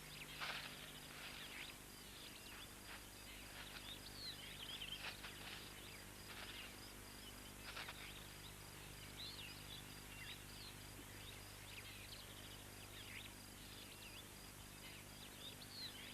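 Faint outdoor ambience of scattered bird chirps and short calls, over a low steady hum.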